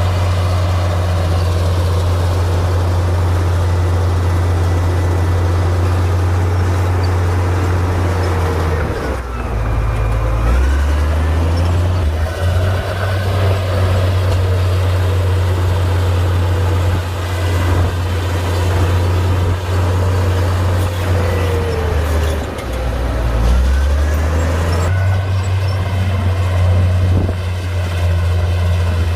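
Komatsu D58P bulldozer's diesel engine running steadily under load. Its note drops and picks back up twice, about a third of the way in and again near the end, as the load comes on, with faint whining glides above the engine.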